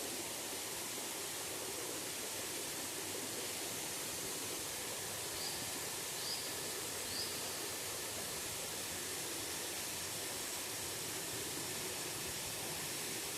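Waterfall rushing with a steady, even roar of falling water. Midway, three short high chirps sound about a second apart.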